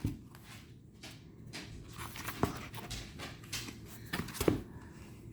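Tarot cards being handled: a few soft clicks and faint rustling as cards are turned over.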